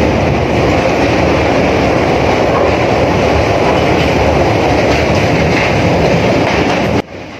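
Passenger train running over a steel truss bridge: a loud, steady rumble and rattle of wheels and carriages on the bridge, heard from the open window. The noise drops sharply about seven seconds in.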